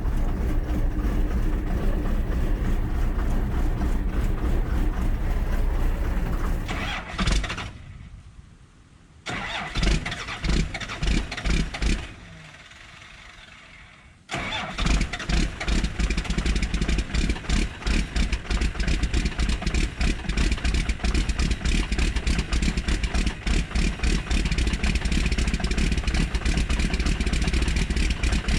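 12-valve 6BT Cummins diesel in a cold start at 7 degrees, with no glow plugs, grid heater or block heater. It runs unevenly, falters and nearly dies about seven seconds in, sputters a few times, then catches again about fourteen seconds in and keeps running rough.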